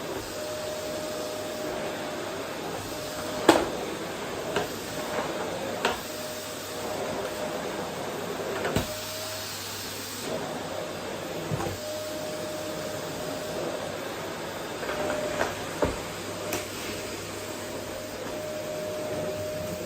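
Vacuum cleaner running steadily on a wooden floor, a steady rushing hum with a faint whine that comes and goes. Sharp knocks and clicks come every second or two, the loudest a few seconds in.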